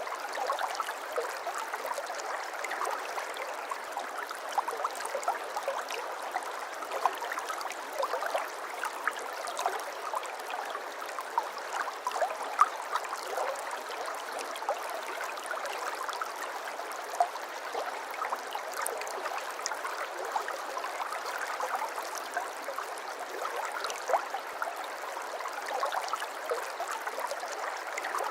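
Shallow water flowing and babbling over stones: a steady trickle and gurgle with many small splashes, constant throughout.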